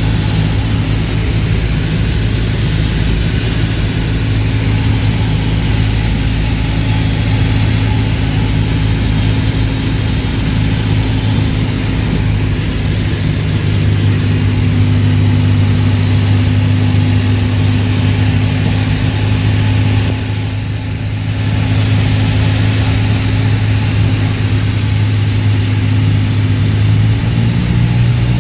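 Steady drone of a Cessna light aircraft's engine and propeller over a hiss of rushing air. About 27 seconds in, the engine note steps up slightly in pitch.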